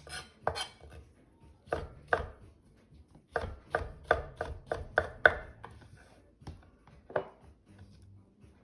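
Kitchen knife chopping food on a cutting board: a few scattered strikes, then a quick run of about seven even chops in the middle, and a last chop near the end.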